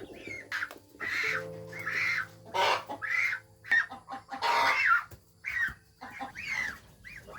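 Farm poultry calling, a string of short calls that follow one another about every half second to a second.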